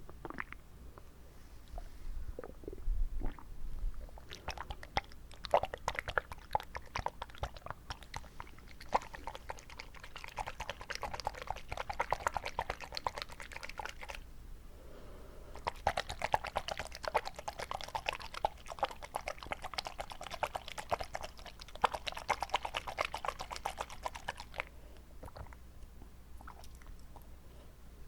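Wet mouth sounds close to the microphone: rapid, crackly wet clicks and smacks in two long runs, with a short pause near the middle.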